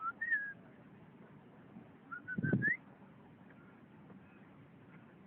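Black swans calling: short, high, whistle-like toots that rise in pitch. One comes just after the start and a quick run of three about two seconds in, with a brief low thud among them.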